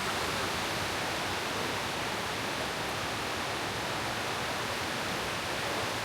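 Steady rush of falling water from a waterfall, an even hiss that does not change.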